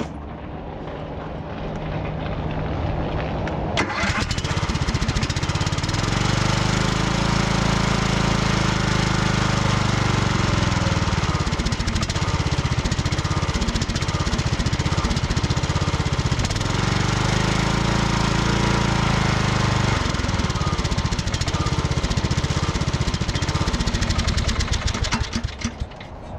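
Riding lawn mower engine, fitted with a replacement muffler, cranking and catching about four seconds in, then running loud with the throttle raised and lowered twice before it shuts down near the end. It runs clean and even, and the owner calls the repair a success.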